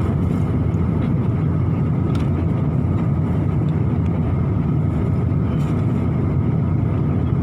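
Steady low drone of an airliner's cabin noise, engines and airflow, with a faint steady whine above it.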